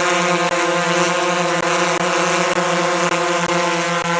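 Parrot Anafi quadcopter drone's propellers running at a steady pitch, an even hum with a hiss over it.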